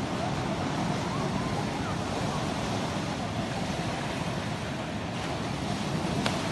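Sea waves washing steadily onto the shore, with wind on the microphone.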